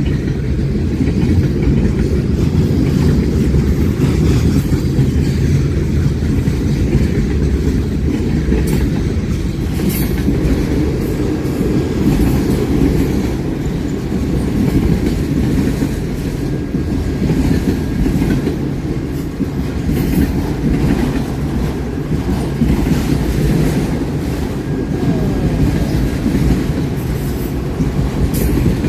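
Train cars rolling past in a steady, continuous rumble, with wheels clacking over the rail joints.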